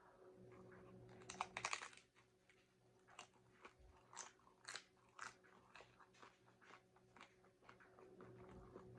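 A person biting into a crunchy taco: a quick run of crackles about a second and a half in, then chewing with sharp crunches roughly every half second.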